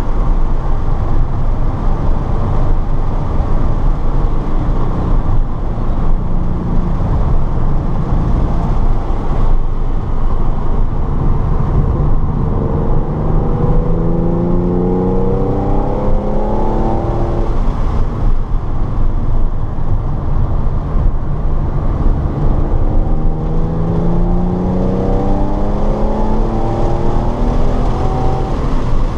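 In-car sound of a car at speed on a race track: engine running hard under wind and road noise, its pitch climbing through a run of acceleration in the middle and again near the end.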